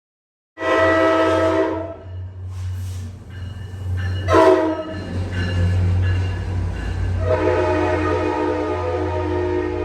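Locomotive horn with several chime tones sounding three times: a blast of about a second, a short blast, then a long blast near the end, over the steady low rumble of the train.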